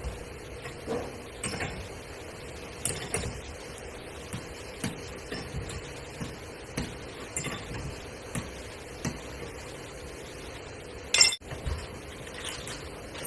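Irregular light metallic clinks and taps, as of hand tools being handled and set down on metal during auto body work, with one louder sharp knock about eleven seconds in, over a steady low hum.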